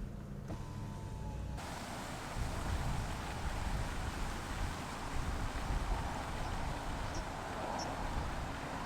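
A car on the move. A low, steady engine hum changes abruptly about a second and a half in to a steady rushing hiss with low, uneven rumbling: wind and road noise.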